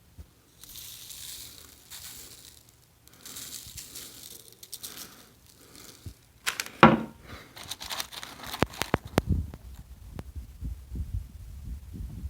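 Paper crinkling and rustling in two long bursts, then a sharp click and a series of low thumps from handling.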